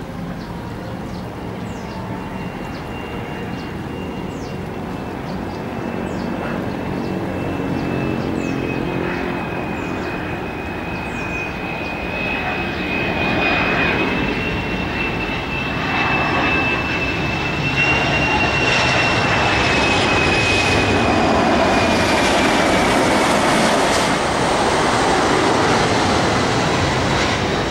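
Jet airliner on its landing approach passing low overhead: a high engine whine over a rushing rumble that grows steadily louder and then holds at its peak.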